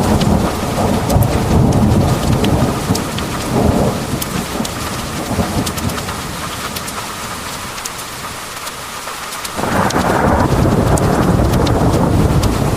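Heavy rain pouring steadily, with sharp individual drops ticking on a hard surface. Thunder rumbles at first and fades. About ten seconds in, a loud new clap of thunder breaks in suddenly and rolls on.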